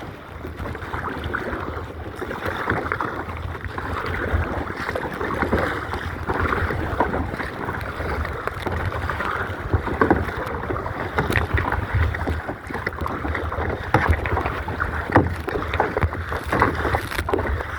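Water splashing and sloshing around a kayak being paddled, with short sharper splashes here and there and wind rumbling on the microphone.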